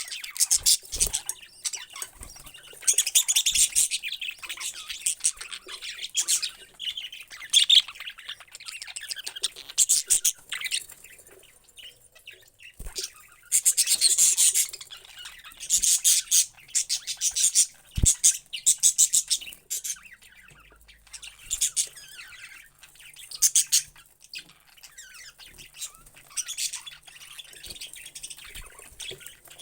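Parrots chirping and squawking, with shrill bursts of calls every second or two and a few sharp clicks between them.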